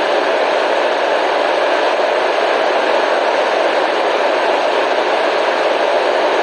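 Steady white noise: an even, unchanging hiss, fullest in the middle range and thin in the deep bass.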